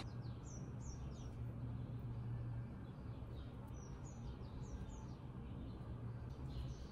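Faint bird chirps: short, high, falling notes in loose clusters, over a low steady room hum.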